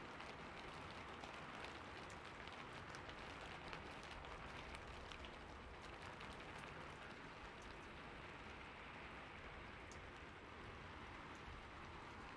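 Steady rainfall: an even hiss of rain with many small drop ticks, a little denser in the first half.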